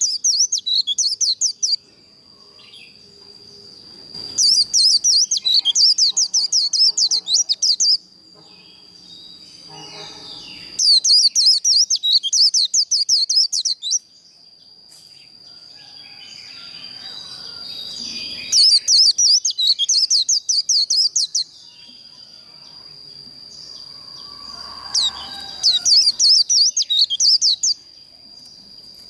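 White-eye (vành khuyên) singing its rapid, high twittering 'líu' song in repeated bursts of about three seconds each, five in all, with brief pauses between. A thin steady high tone runs underneath throughout.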